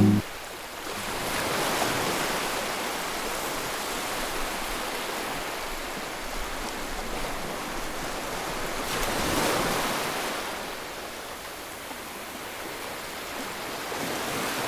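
Ocean surf: waves washing onto a shore, swelling up about two seconds in and again around nine to ten seconds in, then easing off.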